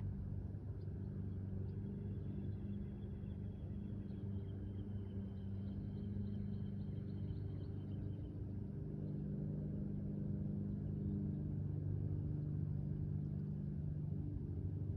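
Steady low hum of a running vehicle engine, with a faint high tone over it for a few seconds early in the middle.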